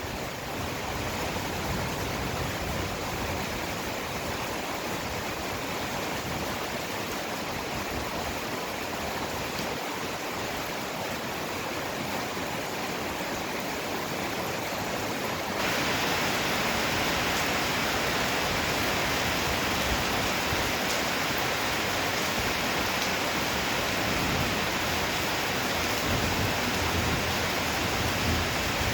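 Heavy downpour: a steady rush of rain that steps up and grows louder about halfway through.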